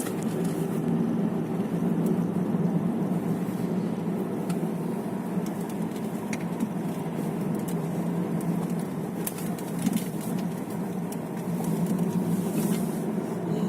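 Inside a moving car: steady low drone of the engine and tyres on the road, with a few faint light ticks.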